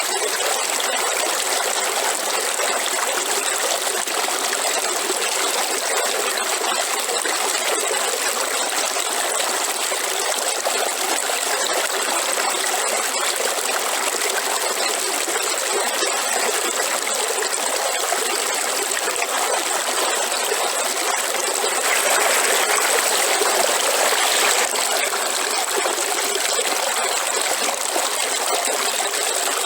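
Waterfall: water falling and splashing in a steady rush, swelling slightly for a few seconds past the middle.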